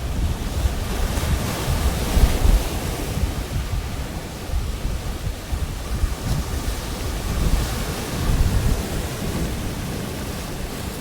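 Pacific Ocean surf breaking and washing up the beach, swelling about two seconds in and again near eight seconds. Wind buffets the microphone with a fluttering rumble.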